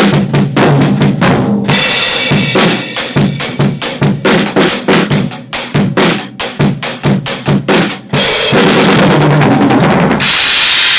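Drum kit played in a busy groove with bass drum, snare and cymbals, picked up by a laptop's built-in microphone over Zoom with original sound turned on, so the drums come through without noise suppression cutting them. Cymbals ring on in a sustained wash over the last few seconds.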